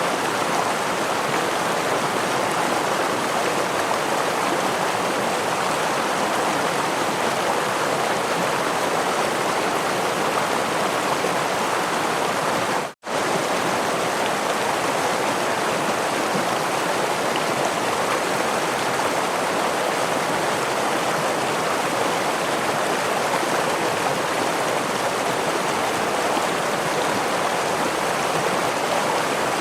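Flowing stream water rushing steadily, with no drops or splashes standing out. About halfway through it cuts out for a split second and resumes unchanged.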